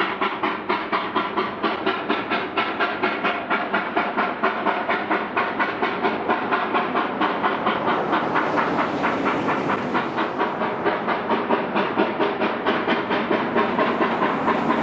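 Narrow-gauge steam locomotive 476, a K-28 2-8-2, working hard with a fast, even exhaust chuff of about four beats a second. A hiss of steam grows louder past the middle.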